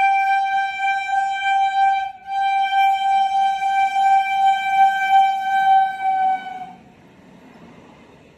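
Train horn sounding two long blasts on one steady high note, the first about two seconds and the second about four and a half seconds. As the horn stops near the end, the rumble of the train running through takes over.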